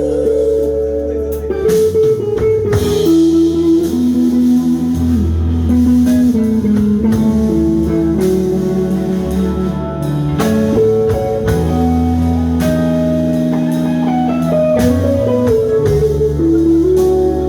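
Live band playing an instrumental passage: a guitar carries the melody over bass guitar and drum kit.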